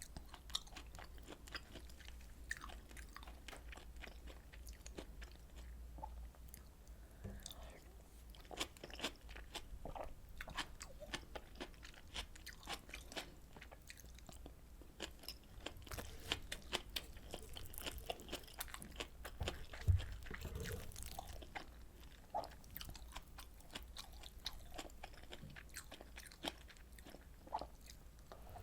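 Close-miked chewing and biting of rolled omelet and pork kimchi stew: a steady run of short crunchy clicks, with one louder thump about two-thirds of the way through, over a faint low hum.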